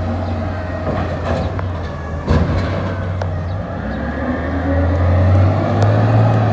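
Garbage truck's diesel engine running steadily, with a sharp knock about two seconds in. The engine speeds up and grows louder in the second half.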